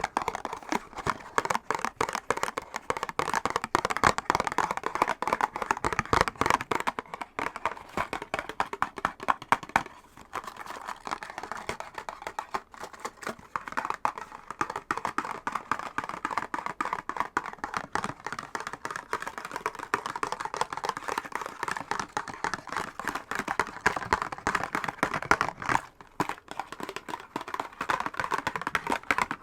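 Fingernails tapping and scratching rapidly on a box: a dense, continuous stream of quick clicks, easing briefly about ten seconds in.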